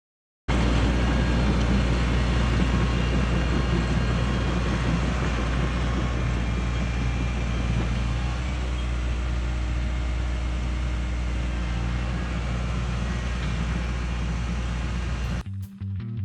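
Cat 314E excavator's diesel engine running steadily, cutting in abruptly about half a second in. Near the end it cuts off and guitar music takes over.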